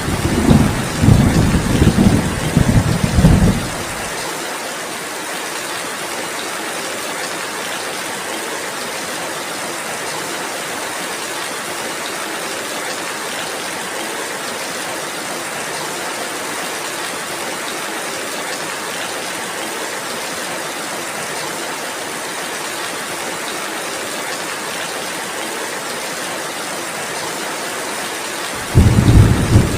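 Steady rainfall hissing evenly. A loud low rumble runs for the first four seconds, cuts off abruptly, and comes back near the end.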